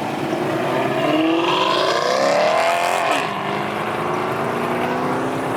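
Pontiac GTO's engine accelerating hard as it drives off. Its note climbs for about three seconds, then drops back to a steady lower pitch.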